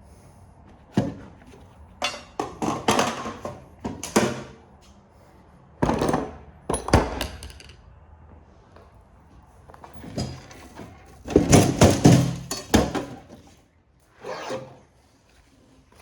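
Irregular clunks, knocks and clatter of metal printer parts being handled and worked loose by hand, in bursts a few seconds apart, the busiest stretch just past the middle.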